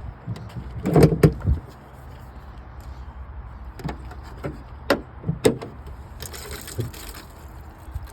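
A truck door being handled and opened: a cluster of knocks about a second in, then several sharp clicks of the latch and handle, over a low steady rumble.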